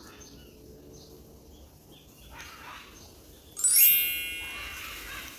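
A bright chime-like ring strikes once about three and a half seconds in, with many high tones at once, and fades away over a second and a half. Before it there are faint scattered bird chirps over a quiet background.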